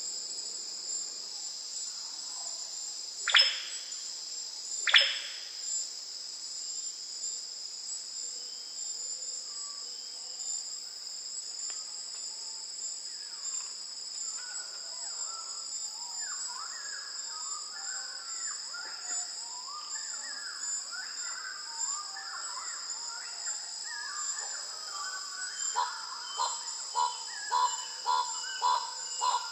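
Tropical forest soundscape: a steady high-pitched insect drone. A few seconds in come two loud downward-sweeping bird calls about a second and a half apart, and later a growing chatter of bird calls that ends in a quick run of repeated notes, about three a second.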